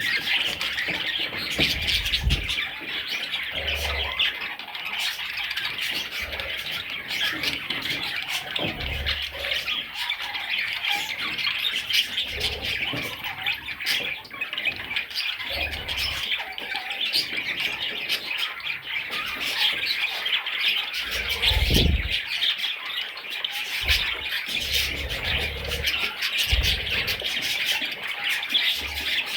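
A flock of budgerigars chattering and squawking nonstop in a dense, high-pitched babble, with a few brief low thuds here and there.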